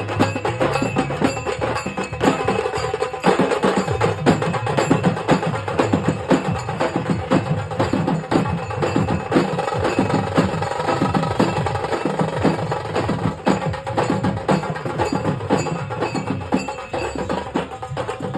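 Procession music played on percussion: fast, dense drum strokes, with a few sustained ringing tones over them.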